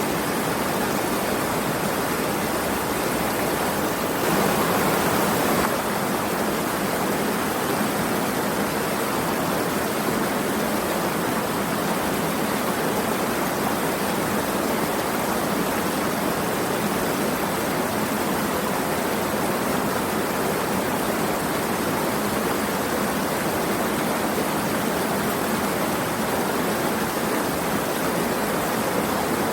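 Steady rushing of flowing water, an even hiss with no distinct drops or splashes, swelling slightly about four seconds in for a second or two.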